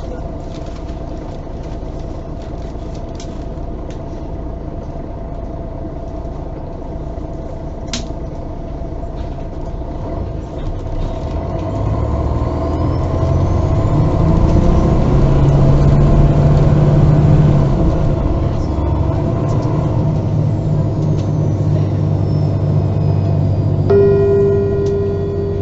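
Interior of a MAN Lion's City G articulated diesel bus under way: a steady rumble, with the engine note rising as the bus accelerates from about 11 seconds in. It is loudest a few seconds later, then settles. Near the end comes a short steady chime tone.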